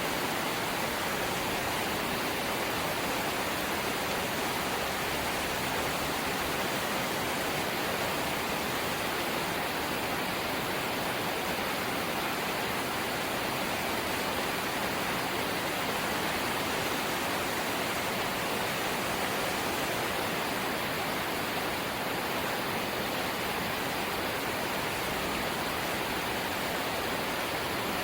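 Steady rain falling on a corrugated zinc roof, an even hiss with no separate drops standing out.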